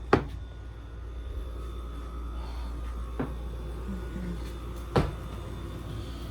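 Window air conditioner running with a steady low hum, broken by three sharp clicks: a loud one at the start, a faint one about three seconds in, and another loud one about five seconds in.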